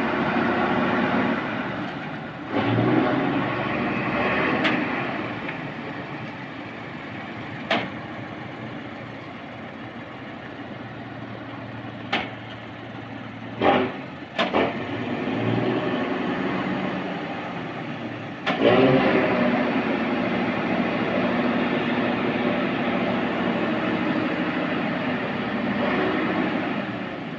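Truck engine running, its revs rising and falling as the crane works the load. There are a few sharp knocks in the middle.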